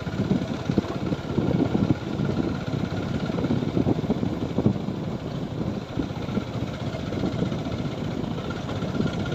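TVS Apache 4V motorcycle's single-cylinder engine running steadily while being ridden, with a continuous uneven low rumble.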